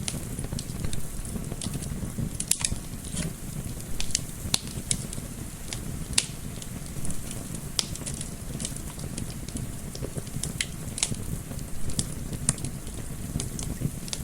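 Wood fire in a fireplace crackling, with sharp irregular pops and snaps over a low steady rumble of flames and gentle wind.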